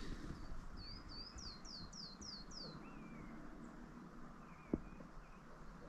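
A small songbird sings a short high phrase about a second in: two swooping notes, then a run of five quick falling notes, with a few faint calls after it. A single knock sounds near the end.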